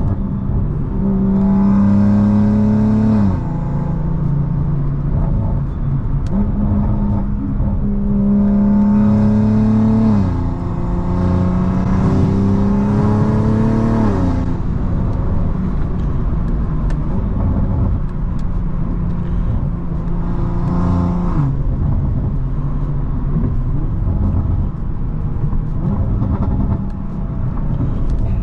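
Tuned BMW M340i's turbocharged B58 inline-six pulling through the gears. The engine note climbs under acceleration and drops sharply at each of several upshifts, with a hiss rising over it during the harder pulls.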